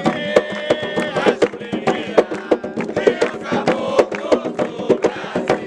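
Music: drums struck in a quick, dense rhythm, with voices singing over them.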